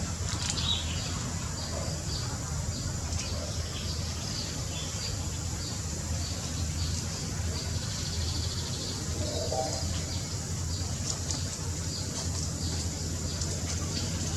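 Small birds chirping: a steady run of short, high chirps, a few each second, over a low steady hum.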